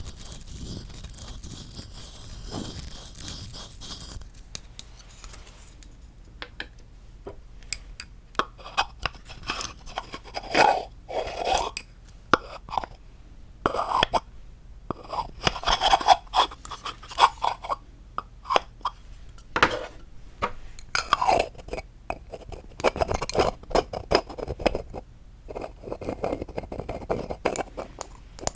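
Tapping and scratching on wooden objects, ASMR-style. A steady scratchy rustle for the first few seconds, then quick, irregular taps and scrapes, several a second.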